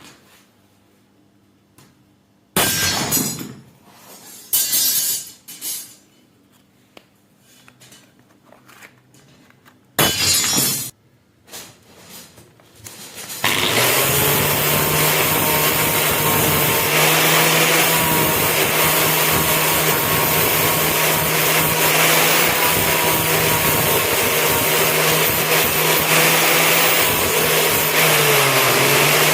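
A few short, harsh scraping bursts on metal, then about halfway in an electric power tool starts up and runs steadily with a constant hum, working on the knife blade.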